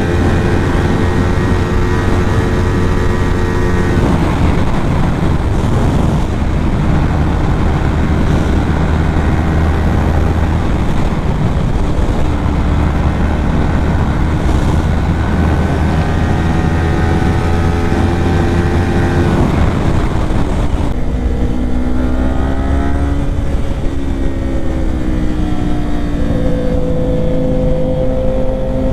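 Kawasaki Ninja 400 parallel-twin engine running at road speed under a heavy rush of wind noise. Its pitch holds steady for long stretches, then rises and falls several times in the last third as the rider works the throttle and gears.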